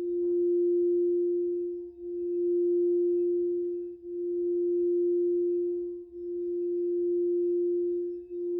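Crystal singing bowl sounding one sustained, pure, mid-low tone that swells and dips about every two seconds.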